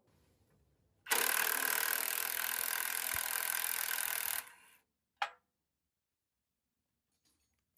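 A power tool runs for about three and a half seconds, a dense mechanical rattle that starts and stops abruptly, followed by a single sharp click.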